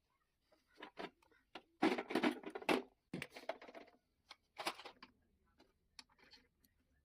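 Metal motorcycle engine parts and hand tools clinking and knocking during engine assembly: an irregular run of clicks and taps, with a denser clatter about two to three seconds in.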